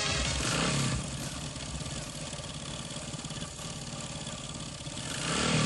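A vehicle engine idling, a steady low pulsing run, as the song's music fades out about a second in.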